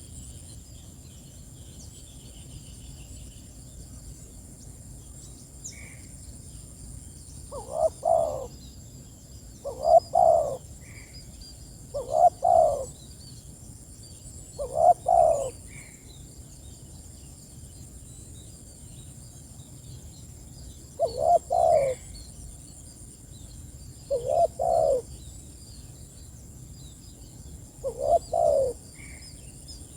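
Spotted dove (tekukur) calling with its cooing song: seven short phrases of a few low coos each, four in a row starting about eight seconds in and three more later, with a brief higher note between some phrases. A faint steady high-pitched tone runs underneath.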